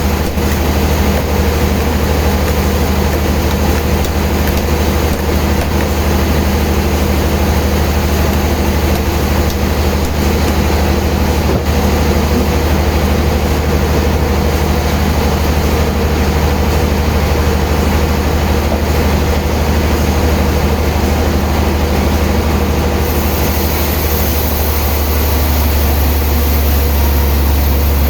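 Heavy sawmill machinery running with a loud, steady low hum. Near the end a high hiss joins in and the hum grows stronger.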